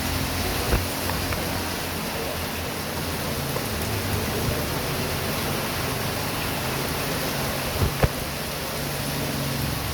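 Heavy rain pouring steadily. A sharp knock comes about a second in and two more come close together about eight seconds in. A low hum fades out early and returns near the end.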